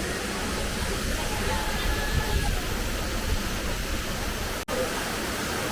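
Waterfall, a steady, even rush of falling water, briefly cut by a momentary dropout near the end.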